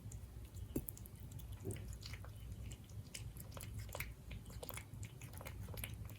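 Siberian cat chewing its food, a quick irregular run of small clicks and smacks.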